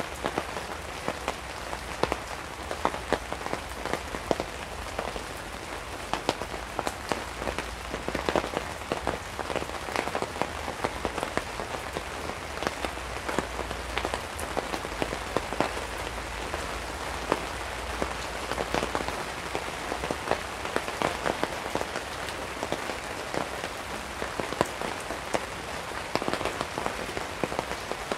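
Heavy rain falling on a tarp overhead: a steady patter thick with sharp individual drop hits.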